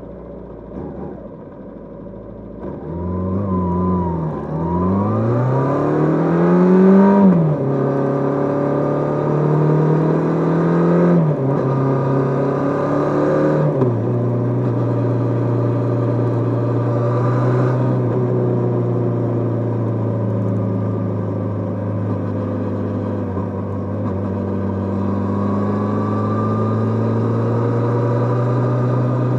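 Kawasaki GPZ550 inline-four motorcycle engine, heard from on board, running quietly and then accelerating hard about three seconds in. The pitch climbs and drops through three upshifts, and the engine then holds a steady cruising note.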